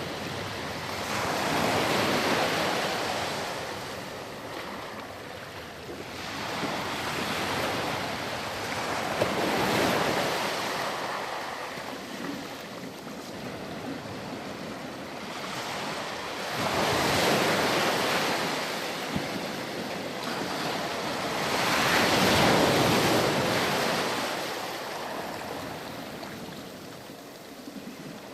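Ocean surf: waves breaking and washing up a beach, swelling and easing about every five to seven seconds, four times.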